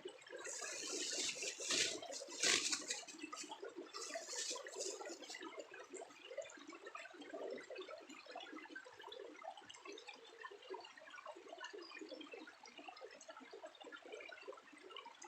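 Water splashing and sloshing, with a few louder splashes in the first five seconds, then a lower, steady lapping.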